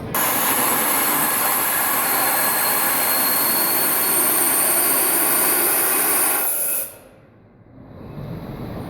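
Loud, steady hiss with a faint high whistle from the 1859 Corliss steam engine as it is being got running, cutting off suddenly about seven seconds in.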